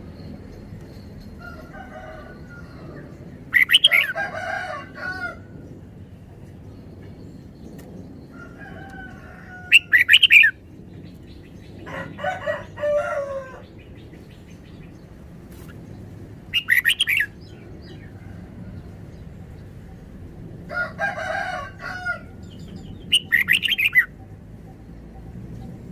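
Red-whiskered bulbul singing short, bright whistled phrases, about six bursts a few seconds apart.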